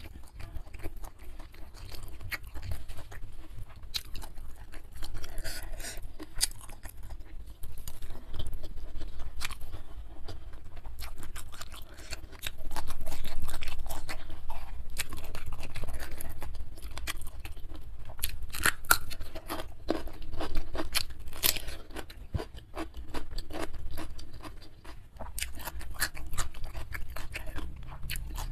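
A person chewing and crunching food close to the microphone, with irregular wet mouth clicks and crackles.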